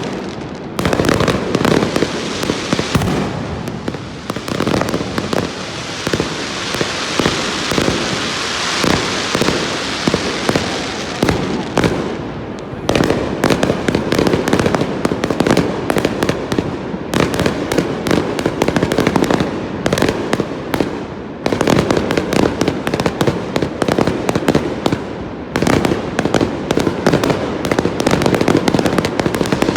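Aerial fireworks display heard from close beneath: a dense, rapid barrage of shell bursts, with a stretch of continuous crackle a few seconds in.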